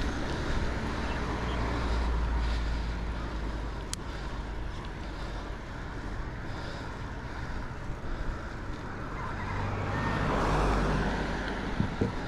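Steady wind and road rumble on a chest-mounted camera as a folding bike rides along a road, with a motor vehicle passing that swells loudest about ten seconds in.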